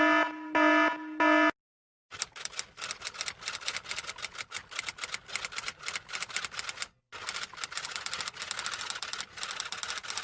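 Rapid typing: a fast, uneven stream of key clicks that stops briefly about two-thirds of the way through, then carries on. Before it, in the first second and a half, a few short buzzy beeps at one pitch.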